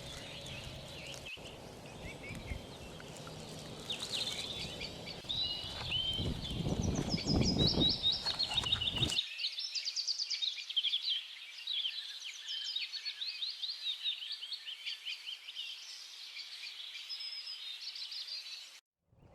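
Songbirds chirping and singing, with many quick, rapid trills, over low background outdoor noise. The background noise swells about six to eight seconds in and then cuts off abruptly, leaving only the birdsong.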